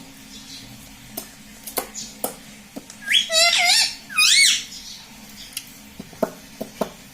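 Ring-necked parakeet giving two short, loud warbling calls, one about three seconds in and one about a second later, with scattered sharp clicks before and after.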